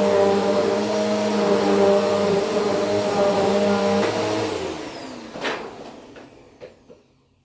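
Vacuum cleaner running steadily, then switched off about four seconds in, its motor winding down and fading out over the next few seconds. A short knock comes shortly after it stops.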